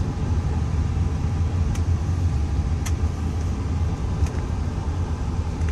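Steady low rumble of a 1998 Bentley Arnage twin-turbo V8 cruising, heard from inside the cabin with road and tyre hiss, and a few faint clicks. Very silent, very smooth.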